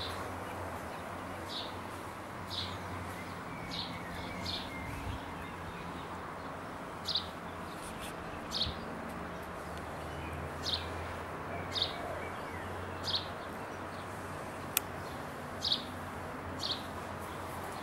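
A small bird chirping outdoors: short, high, slightly falling single chirps repeated every second or so, with one sharp click about three quarters of the way through.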